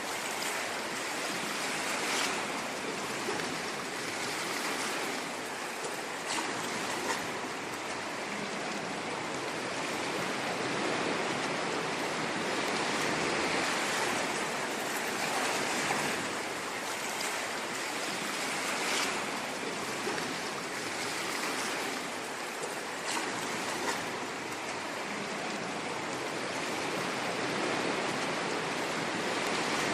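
Ocean waves washing on a shore, a continuous hiss of surf that swells and eases gently every few seconds.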